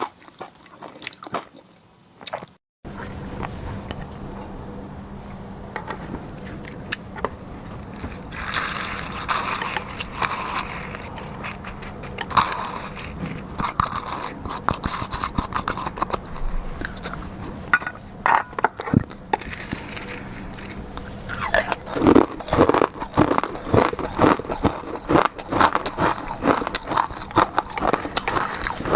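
Close-miked ASMR eating: a person biting, crunching and chewing seafood, with many irregular clicks and scrapes. After a brief drop-out about three seconds in, a faint steady hum runs underneath.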